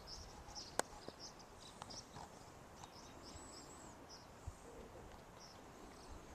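Quiet outdoor ambience with faint, scattered bird chirps and one sharp click about a second in; no engine running.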